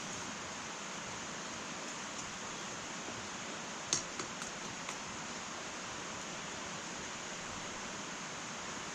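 Fire burning in an irori (sunken Japanese hearth): a steady hiss, with a sharp crackle about four seconds in and a few smaller pops just after.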